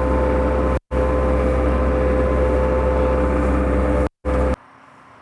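An engine running steadily at high speed with a strong droning hum. The sound cuts out twice for a moment and stops abruptly about four and a half seconds in.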